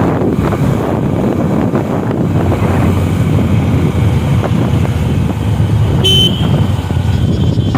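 Wind buffeting and road noise while riding a motorcycle, steady throughout, with one short horn beep about six seconds in.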